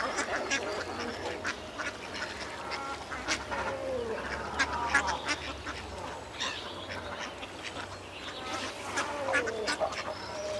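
Ducks quacking, a busy run of short calls, with a few longer calls that fall in pitch about four seconds in and again near the end.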